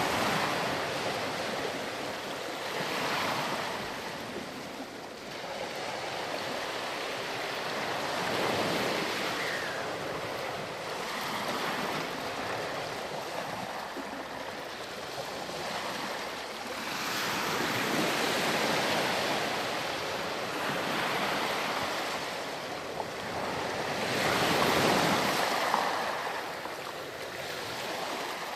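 Sea waves washing onto a sandy beach, each swell rising and falling every few seconds, with the strongest breaks about eight, seventeen and twenty-five seconds in.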